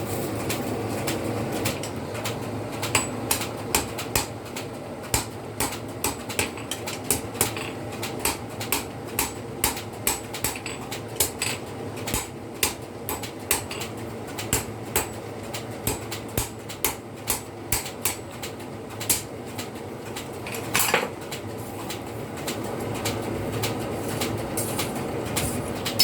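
Hand hammer striking metal in a blacksmith's shop: sharp, light blows, irregular at about two a second, with a steady low background noise. The blows stop about three quarters of the way through.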